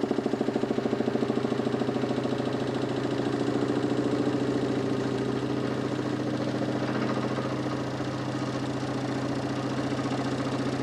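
DC motor spinning a large plywood Nipkow disc on a homemade mechanical televisor: a steady running hum with a fast, even pulsing flutter that smooths out and shifts slightly in pitch about halfway through.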